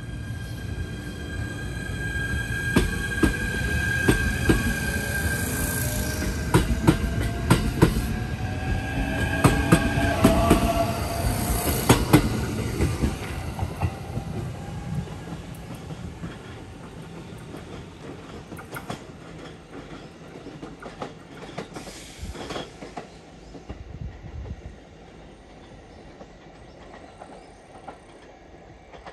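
E129 series electric train pulling out of the station. A steady high whine and a rising motor whine come as it gathers speed, with wheels clacking over rail joints. It is loudest about twelve seconds in, then fades as it moves away.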